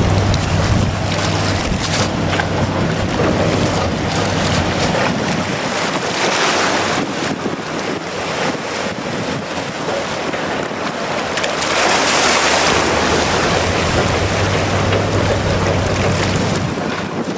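Strong wind buffeting the microphone as a loud, rushing roar that swells in gusts about six and twelve seconds in.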